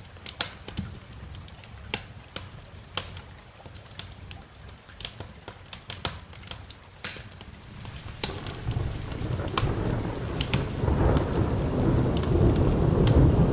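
A wood fire crackling with scattered sharp pops, over rain. About eight seconds in, a low rumble of thunder swells up and keeps rolling, growing louder.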